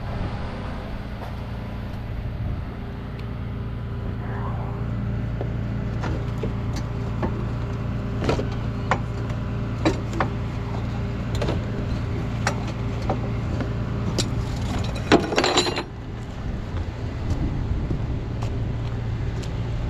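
Idling tow-truck engine with a steady drone, with scattered sharp metallic clinks and knocks of chains and hooks being handled, and a louder rattling clatter about fifteen seconds in.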